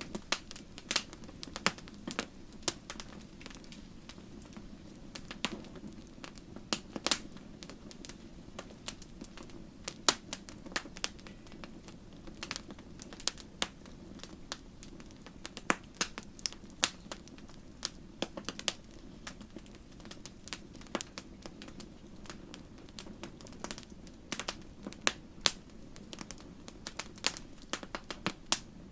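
Wood campfire crackling and popping: frequent sharp, irregular snaps over a steady low rush of the burning fire.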